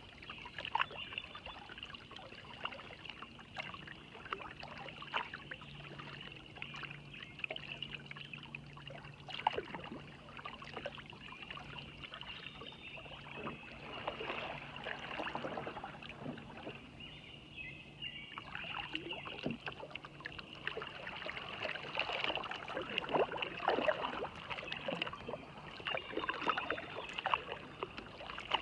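Kayak paddle strokes in the water: irregular splashing, with water dripping and trickling off the paddle blades, heavier in bunches through the middle and later part.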